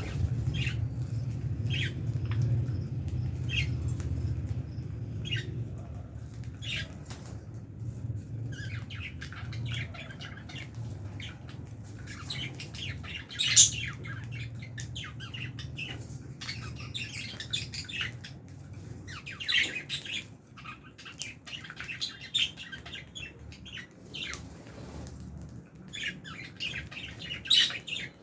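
Lovebirds chirping and squawking, short high calls coming in clusters, with one louder squawk about halfway through. A low hum sits underneath at first and fades out within the first third.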